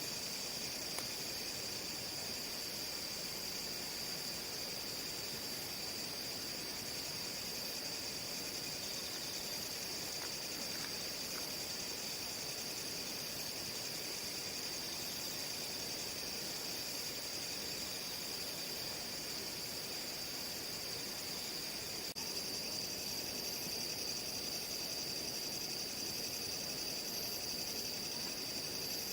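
Crickets or similar insects trilling in a steady, unbroken high chorus, a little louder about two-thirds of the way through.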